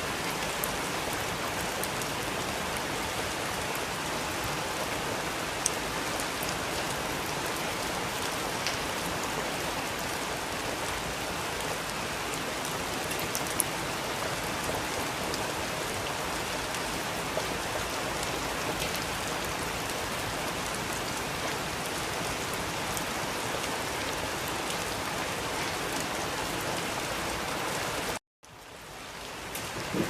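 Steady rain falling, with scattered sharper drops ticking through the hiss. Near the end it cuts out completely for a moment, then fades back in.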